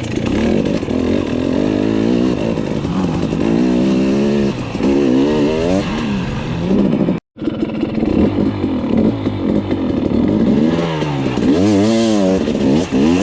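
Dirt bike engine being ridden over rough ground, the revs rising and falling again and again as the throttle is blipped. The sound cuts out for a split second about seven seconds in.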